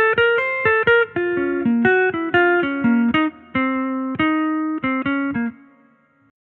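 Jazz guitar playing a quick single-note bebop line of plucked notes. The last note, about five and a half seconds in, is left to ring and fade away.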